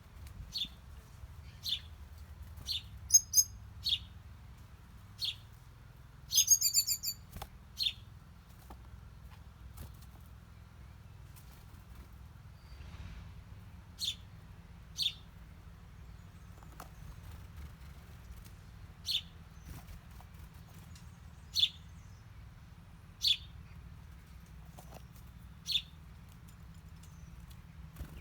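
Small birds chirping: short sharp chirps, several close together in the first eight seconds and then one every few seconds, with a brief rapid trill about six seconds in, over a faint low rumble.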